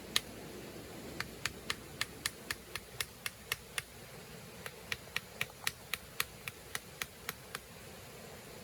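Rapid sharp light taps or knocks, about four a second, in two runs of roughly a dozen strokes with a pause of about a second between them, over a steady low hiss.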